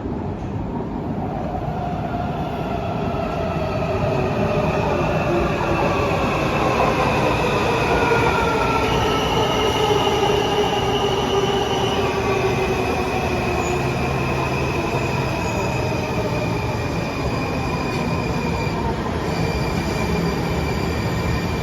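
Washington Metro train in the station, its motor whine falling in pitch as it slows, getting louder over the first several seconds. From about the middle on, steady high wheel squeal.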